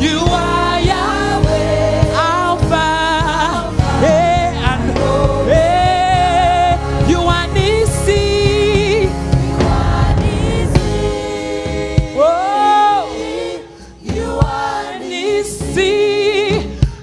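Gospel choir and worship leader singing with a live band, held notes with vibrato over keyboard and bass. About twelve seconds in the band drops out and the voices carry on nearly alone.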